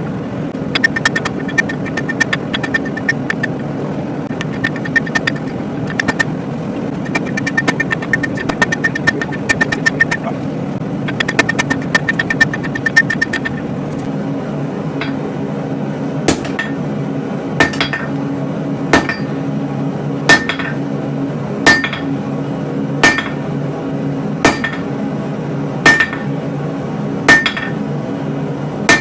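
Hammer blows on hot steel at the anvil: fast bursts of strikes for about the first half, then single ringing blows about every second and a half, over a steady low drone.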